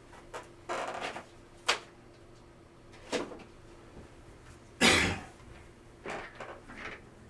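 Scattered handling noises from things being moved about on a table: a short rustle, a couple of sharp clicks, and a louder brush or knock about five seconds in.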